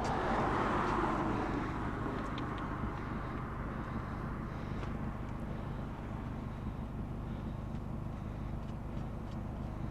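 Vehicle noise: a steady low rumble, with a swell of road noise in the first two seconds that fades as a vehicle passes.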